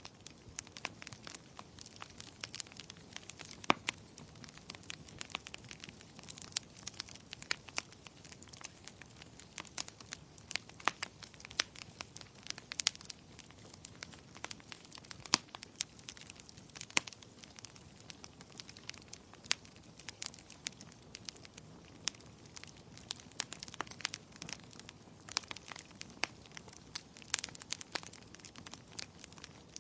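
Wood fire burning in a fireplace, crackling: irregular sharp pops and snaps, several a second, some much louder than the rest, over a soft steady hiss of the flames.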